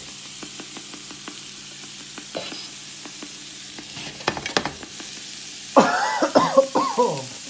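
Sliced red onion, chilli and garlic sizzling steadily in a non-stick frying pan, with a few light clicks. About six seconds in, a person's voice breaks in loudly for a second or so.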